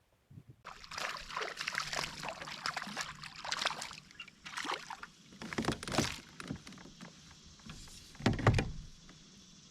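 Water splashing and sloshing around a kayak, with irregular crackly handling noises. A single hollow thump on the hull about eight and a half seconds in is the loudest sound.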